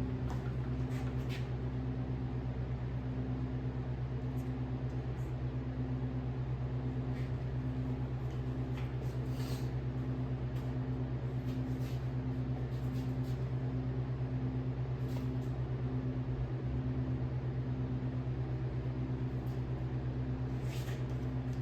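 A machine motor running with a steady low hum and a regular pulsing tone over it, plus a few faint light clicks.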